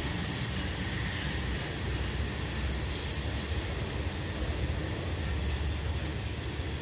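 Freight train cars rolling past, a steady rumble of steel wheels on rail that is heaviest in the low end.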